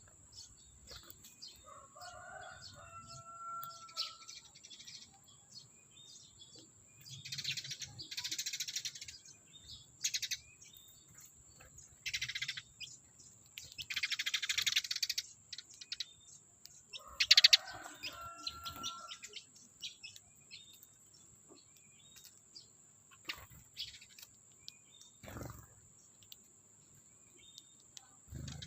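Sparrows chirping with many short, high calls, broken by several louder rustling bursts of about a second each, over a steady high-pitched whine.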